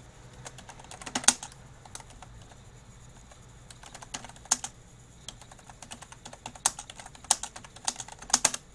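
Typing on a computer keyboard: irregular key clicks in short runs, the loudest clack about a second in and a busier run of keystrokes near the end.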